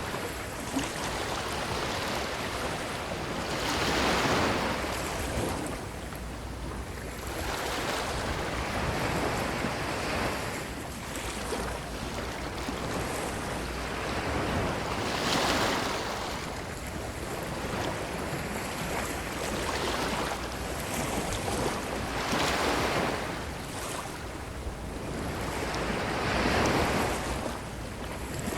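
Ocean surf: waves breaking and washing up a beach, the rush of water swelling and fading every few seconds, with the biggest surges about four seconds in, a little past the middle and near the end.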